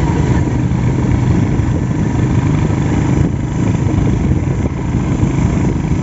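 Steady low rumble of travel: an engine running continuously under heavy wind noise on the microphone, with no breaks.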